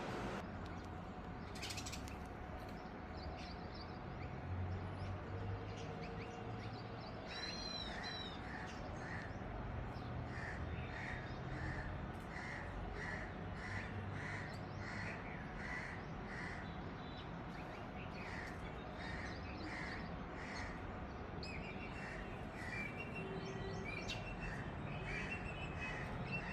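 Birds calling at a colony: from about eight seconds in, one call repeats about twice a second, with a few higher chirps over it and a low steady rumble underneath.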